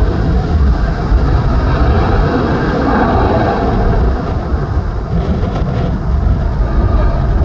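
Airbus A319 jet engines at takeoff power as the airliner departs, a loud steady roar with deep rumble that swells about three seconds in.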